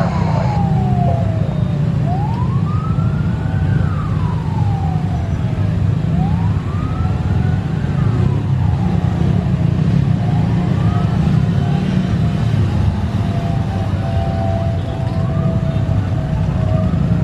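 A siren wailing, its pitch slowly rising and falling about every four seconds, over a steady low rumble.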